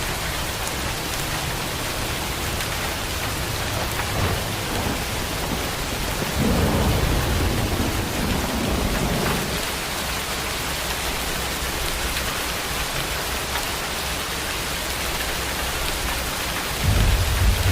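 Steady heavy rain falling, with low rolls of thunder: one lasting about three seconds starting some six seconds in, and a shorter one near the end.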